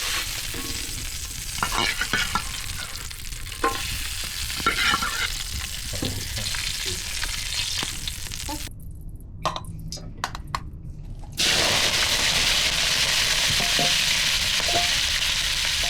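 Food sizzling as it fries, with scattered knocks of a utensil stirring it. The sizzle drops away about nine seconds in and comes back louder a few seconds later.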